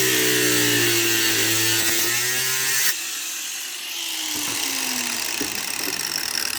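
Power saw cutting through deer antler, its motor running steadily. The noise cuts off abruptly about three seconds in, and a fainter falling whine follows as the blade winds down.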